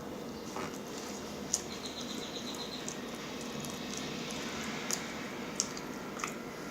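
Close-up mouth sounds of a person chewing food: wet chewing and lip smacking with a few sharp clicks and a quick run of small ticks.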